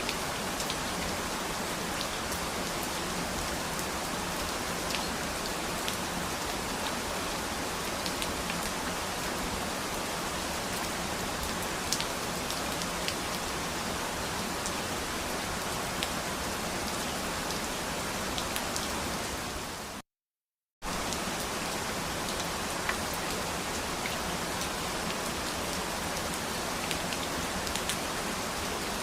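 Steady rain falling, with scattered distinct drop ticks. About twenty seconds in, it fades and drops to total silence for under a second, then comes straight back.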